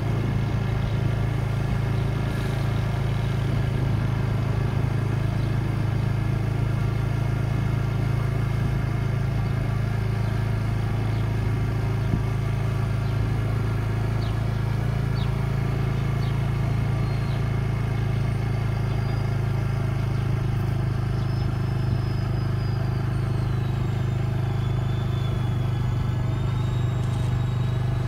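Steady drone of a motor vehicle on the move, engine hum and road noise holding an even level throughout.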